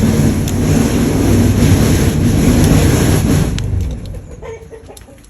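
A motor vehicle engine running loud for about three and a half seconds, then fading away.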